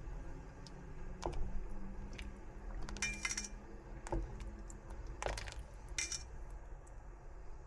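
Scattered light clinks and clatter of dishes and metal utensils, a few louder clinks ringing briefly about three, five and six seconds in.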